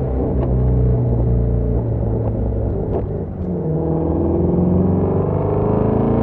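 Shelby GT350's 5.2-litre flat-plane-crank V8 through its stock exhaust, coming down off the revs and then rising again. A few sharp pops crack out along the way, about half a second, two and a quarter, three and three and a half seconds in: overrun pops from feathering the throttle while decelerating.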